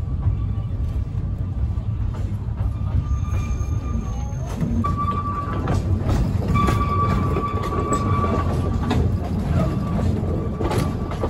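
Railway passenger coach rolling slowly along the track: a steady low rumble with scattered clicks from the wheels and rail joints, and a thin, high wheel squeal that comes and goes and is strongest around the middle.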